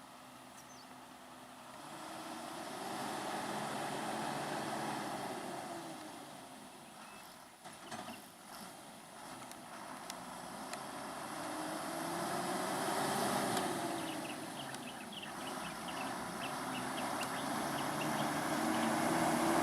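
Motor vehicles passing on a road one after another, each engine sound swelling and fading as it goes by, with another vehicle coming closer near the end. A few knocks come about eight seconds in.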